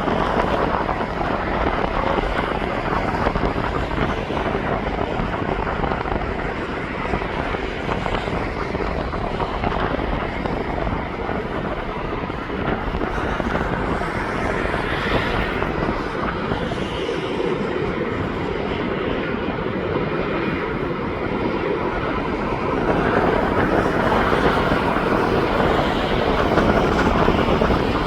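Jet airliner engines running as an aircraft passes: a loud, steady noise that swells near the end.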